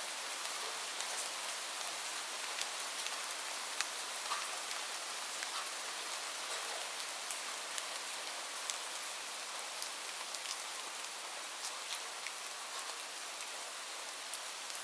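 Steady rain falling, an even hiss with many small drops ticking sharply on a surface.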